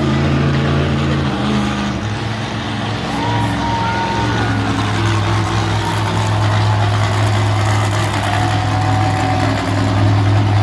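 Monster truck engine running steadily, its low note dropping slightly about two seconds in and then holding.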